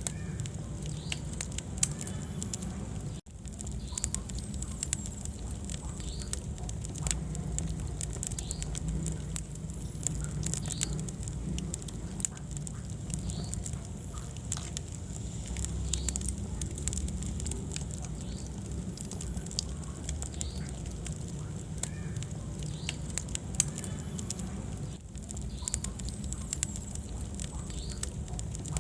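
Wood fire crackling in a fireplace: many sharp pops and snaps over a steady low rumble of burning. The sound cuts out for an instant about three seconds in.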